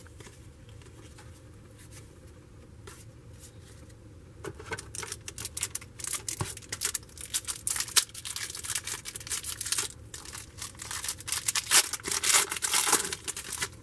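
A 1993 Skybox Impact football card pack wrapper being torn open and crinkled, with cards being handled. The first few seconds are fairly quiet, then dense irregular crackling starts about four seconds in and is loudest near the end.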